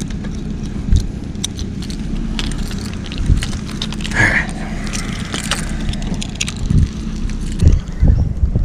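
Steady low motor hum with a held tone, with scattered clicks and knocks and a brief higher squeak about four seconds in; the knocks come thicker near the end.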